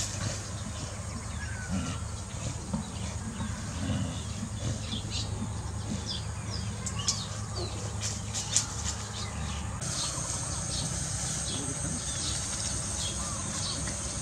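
Small birds chirping now and then over a steady low hum, with light rustling of dry straw as dogs play. A steady high hiss joins about ten seconds in.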